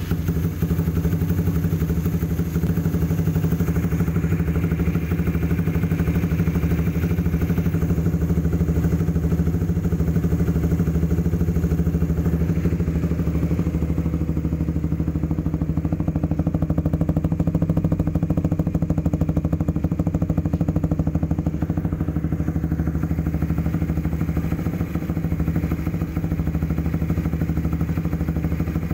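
An engine idling steadily, with an even, unchanging rhythm.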